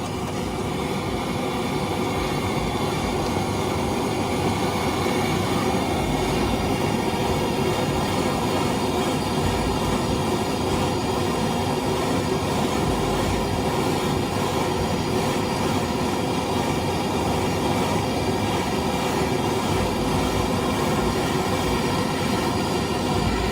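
A power tool running continuously under load, cutting through the car's old steel exhaust pipe with a steady metallic grinding screech. It stops abruptly at the end.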